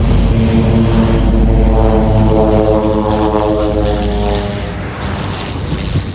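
Airliner passing close by: loud engine rumble with a droning tone that falls in pitch as it goes past. The deep rumble drops away about four and a half seconds in.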